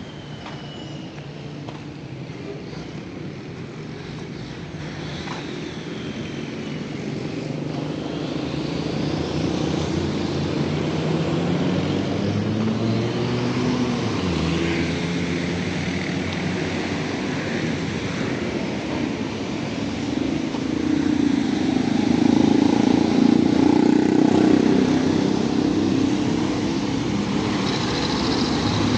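A motor vehicle's engine running close by in the street, growing steadily louder and loudest a little over twenty seconds in before easing slightly.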